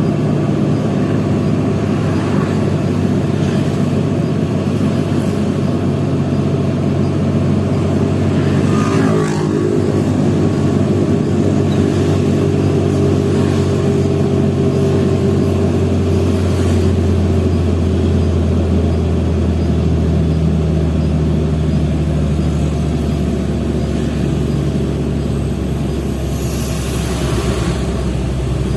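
Hino FL 260 JT truck's six-cylinder diesel engine running steadily under heavy load, the truck laden with about 33 tons of coal. The engine note shifts about nine seconds in and grows deeper and stronger after about seventeen seconds.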